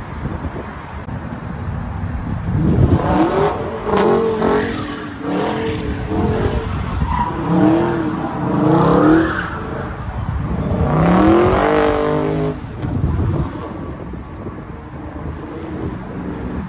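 A motor vehicle's engine revving several times, its pitch sweeping up and down, over a steady low rumble.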